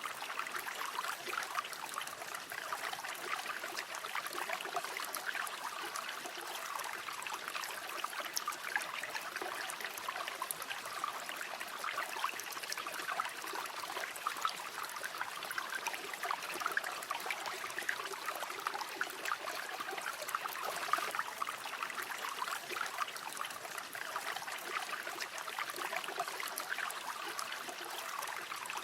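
A small river or stream running steadily, with a bubbling, splashing texture of many small water sounds.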